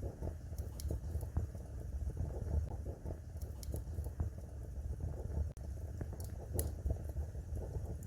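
Wood fire burning in a fireplace: a low steady rumble of flames with irregular crackles and a few sharper pops.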